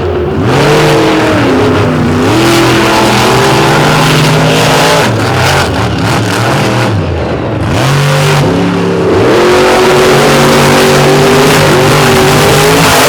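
Monster truck V8 engines racing at full throttle. The pitch drops sharply twice, about two seconds in and again around seven seconds, then climbs back as the throttle is lifted and floored again.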